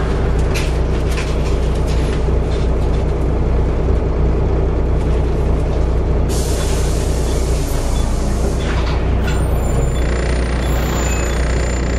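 Volvo B7TL double-decker bus's six-cylinder diesel and drivetrain running steadily under way, heard on board. About six seconds in, a loud hiss of released air lasts some three seconds, typical of the air brakes; near the end a faint steady high whine joins the engine sound.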